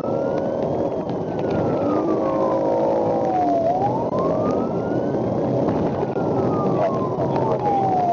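Emergency vehicle siren in a slow wail, its pitch falling and rising again about every four and a half seconds, over steady traffic and engine noise.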